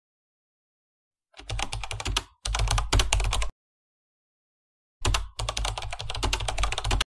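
Computer keyboard typing sound effect: two runs of rapid key clicks, the first starting about a second and a half in with a brief break, the second starting about five seconds in.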